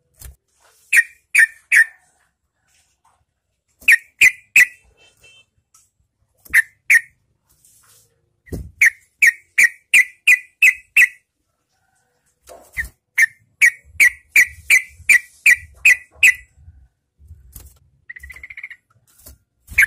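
Yellow-vented bulbul calling in bouts of short, sharp notes, a few at a time at first, then in longer rapid runs of eight to ten notes.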